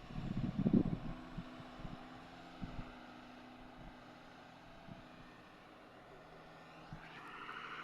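Heavy diesel machinery engine running steadily, with a cluster of knocks and clanks in the first second and a few more after. The engine grows louder near the end.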